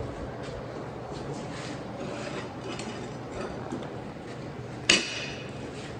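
Steel bracket pieces being handled on a workbench: faint scraping and clinking, then one sharp metallic clank with a brief ring about five seconds in, over a steady low hum.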